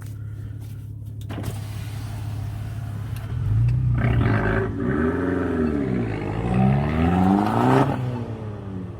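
Fiat 500X with a loud aftermarket exhaust accelerating hard, its engine note climbing and falling, then climbing again to its loudest before dropping away suddenly about eight seconds in.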